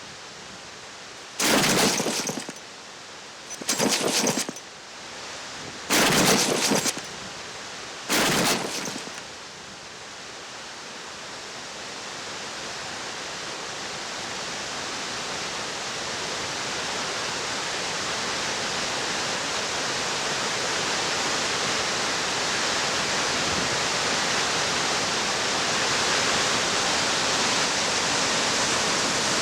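Rushing-water noise: four loud bursts, each about a second long and roughly two seconds apart, in the first nine seconds. After them a steady roar of falling water grows gradually louder.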